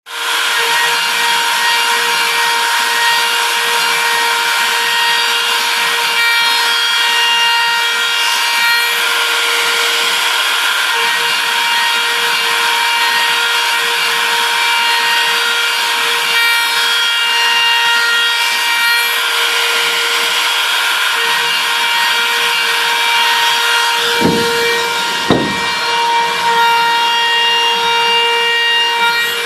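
A DIY CNC machine's spindle running steadily with a high whine while the cutter machines a hole, a rough cutting hiss under the tone. Two short knocks about a second apart near the end.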